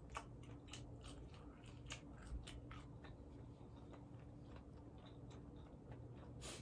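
A person chewing food with her mouth closed: faint, irregular wet mouth clicks over a low steady hum.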